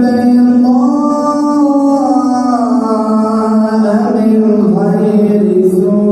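A male reciter's voice in slow, melodic Quran recitation, drawing out long held notes that slowly step down in pitch, with a brief wavering ornament about two-thirds of the way through.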